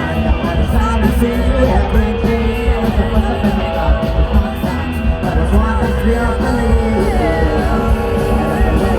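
Rock music with a singing voice over the band.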